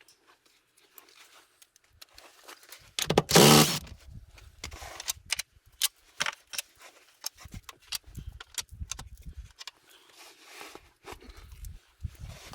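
Hand tools and metal parts being handled while working on a side-by-side's CVT belt and clutch: scattered clinks, knocks and scrapes. There is a louder, brief grinding burst about three seconds in.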